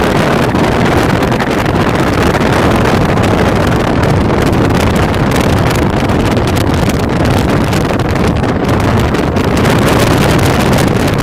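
Wind buffeting the microphone: a loud, steady rumbling noise with constant flutter.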